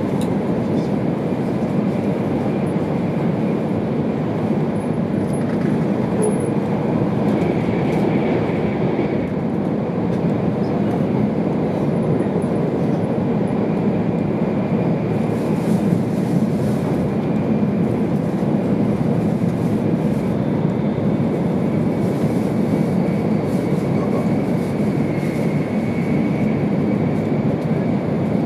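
Steady running noise of a Tohoku Shinkansen E2 series train at speed, heard inside the passenger cabin: an even rumble of wheels, track and air, with a faint high tone coming through twice.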